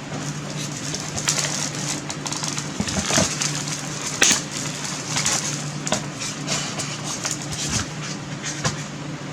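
Irregular rustling, crinkling and light clicks from the crossbow's parts and their plastic packaging being handled, over a steady low hum.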